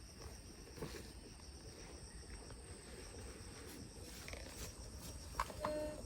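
Insects droning steadily at a high pitch over a low outdoor rumble, with scattered small knocks. A sharp click comes near the end, and a steady pitched tone starts right after it.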